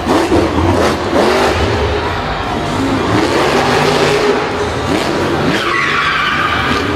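Several racing vehicle engines revving, their pitches rising and falling over one another. From a little over halfway in, a steady high tyre screech joins them.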